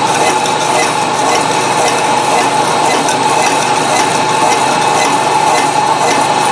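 Milling machine taking a continuous cut on a steel wood-chipper blade: a steady metallic scraping chatter with a constant whine from the machine.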